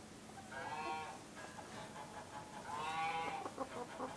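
Two drawn-out calls from barn poultry, each under a second long and about two seconds apart.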